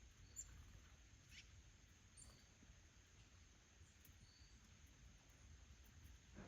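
Near silence with a few faint, brief high chirps from small birds at a seed feeder, one falling in pitch.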